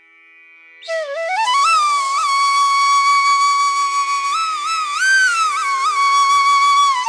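Hindustani classical music in Raag Pahadi: a flute comes in about a second in with sliding, ornamented notes. It settles on one long held note that it bends upward twice, over a steady sustained drone.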